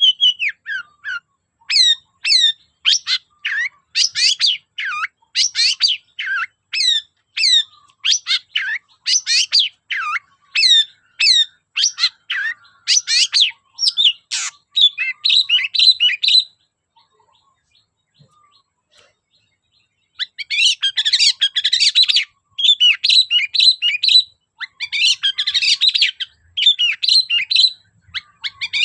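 Long-tailed shrike singing: a run of sharp, downward-sweeping calls, one or two a second, then a pause of a few seconds and a long stretch of fast chattering phrases.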